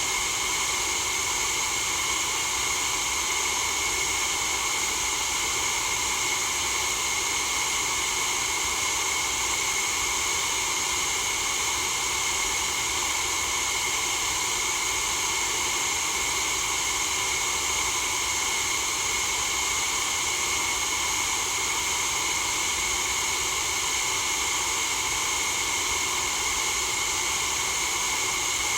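Steady white noise: a constant, even hiss with some fixed brighter bands in the high range, unchanging throughout.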